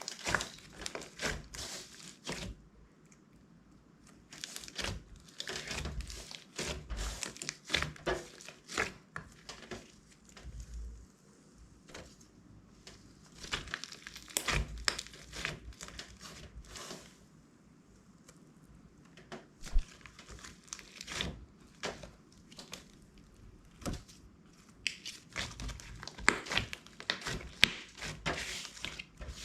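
Clear slime being kneaded and stretched by hand, giving bursts of sticky crackling clicks and pops with short pauses between handfuls.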